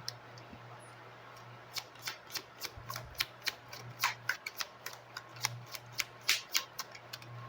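Oracle cards being shuffled by hand: a run of crisp card snaps and flicks, about four or five a second, starting a little under two seconds in.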